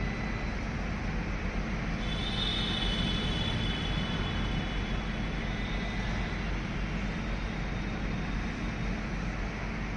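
A train running with a steady rumble, and a high squeal of several tones from about two to six seconds in.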